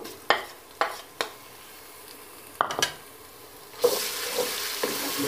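A wooden spoon knocks a few times against the bowl and pot rim as ginger-garlic paste is scraped into the pot. About four seconds in, sizzling starts suddenly as the paste hits the hot oil and fried onions, with the spoon stirring through it.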